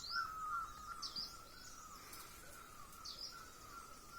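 Birds singing faintly: a steady run of short repeated whistled notes at one pitch, with scattered higher chirps over it.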